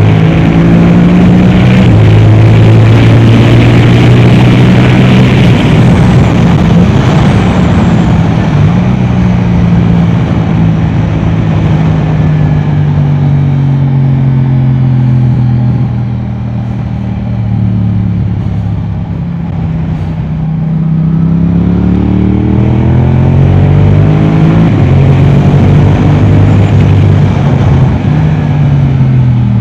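Yamaha R7's 689 cc parallel-twin engine through an Akrapovic exhaust, running hard on track. The revs hold high, fall steadily as the bike slows, and stay lower and quieter for a few seconds in the middle. They then climb again under acceleration and dip once more near the end.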